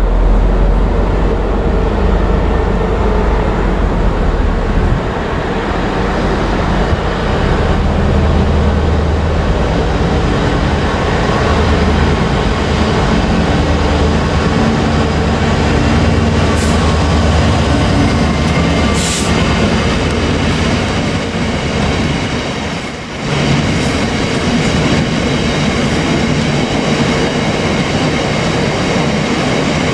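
Class 66 diesel-electric locomotive, with its two-stroke V12 EMD engine, passing at speed with a freight train. Its engine drone is loudest over the first few seconds, then the long rake of loaded open box wagons rolls past with steady wheel-on-rail noise and a few brief clanks.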